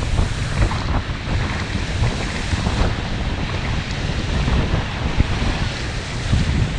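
Lake waves washing in steadily under strong wind, with gusts buffeting the microphone as a heavy low rumble.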